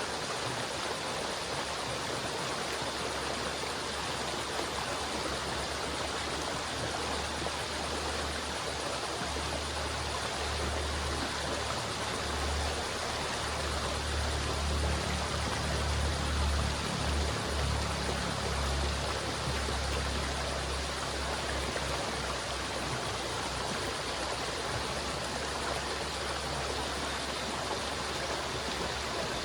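River water flowing in a steady rush, with a deeper low rumble that swells in the middle and fades again.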